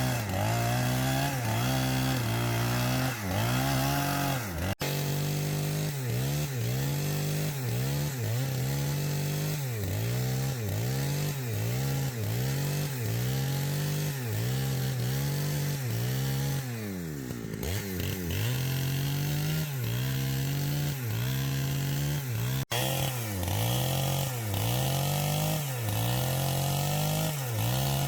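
Two-stroke chainsaw cutting through a log. Its engine pitch dips and recovers again and again, about one to two times a second, as the chain bites under load, and it sags lower for a moment about two-thirds of the way through.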